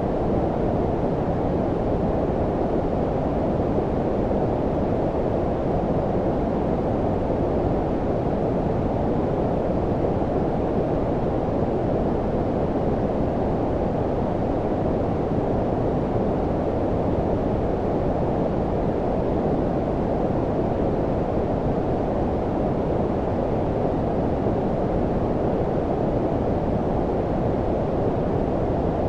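Steady low-pitched synthetic noise, brown-noise-like, a deep even rumble with almost nothing above the low-mid range and no change in level.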